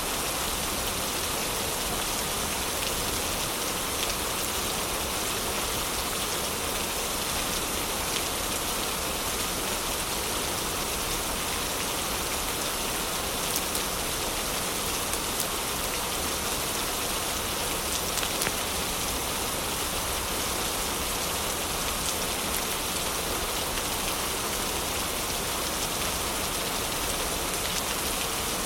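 Heavy rain falling steadily, with a few faint sharp ticks here and there, such as drops or fire crackles.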